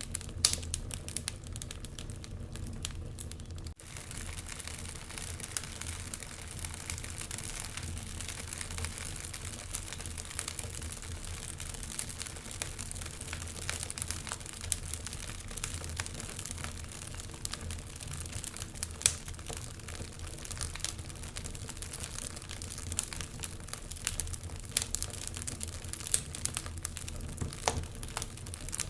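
Wood fire in a fireplace crackling, with dense small pops and occasional louder snaps over a steady low rumble. The sound drops out for an instant nearly four seconds in.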